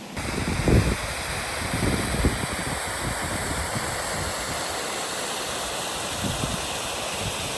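Waterfall: a steady rush of falling water, with a few low thumps in the first two seconds, the loudest about a second in.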